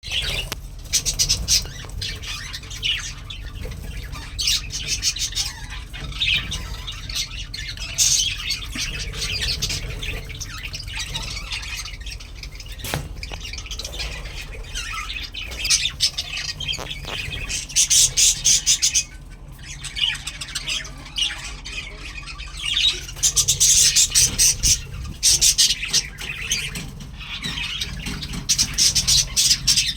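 A colony of budgerigars chattering and squawking continuously, with louder runs of rapid, harsh squawks about two-thirds of the way in and again near the end.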